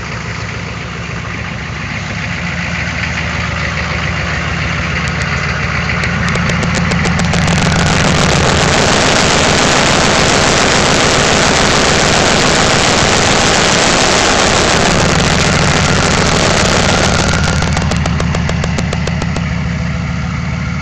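1994 Chevy C2500's 6.5-litre turbo diesel V8 running cold. It grows louder a couple of seconds in, and a loud rushing noise sits over it for about ten seconds in the middle before it settles back to a steady idle.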